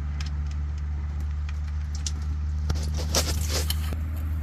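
Engine oil draining from the drain-plug hole into a catch pan, splattering and pattering, with scattered clicks and a denser splashy patch about three seconds in. A steady low hum runs underneath.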